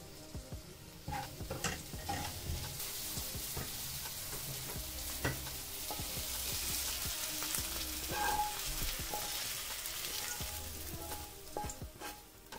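Onion and garlic slices frying in oil in a nonstick pan, sizzling, with the taps and scrapes of a wooden spatula stirring them. Near the end the pan is tipped and the slices are scraped out onto a plate.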